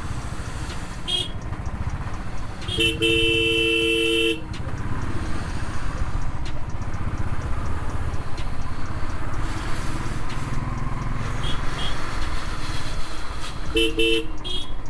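Road vehicle horns honking over the steady rumble of the motorcycle and road: one long two-tone horn blast of about a second and a half, about three seconds in, then a quick run of short toots near the end.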